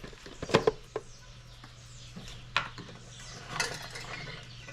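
Kitchen clatter: a few scattered knocks and clinks of utensils and dishes, over a steady low hum.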